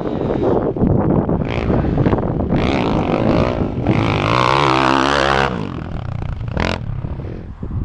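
Kawasaki KX450F four-stroke single-cylinder dirt bike engine with a loud Two Brothers exhaust, revving as the bike is ridden on a motocross track. Its pitch swings up and down around the middle, then the engine is a little quieter near the end.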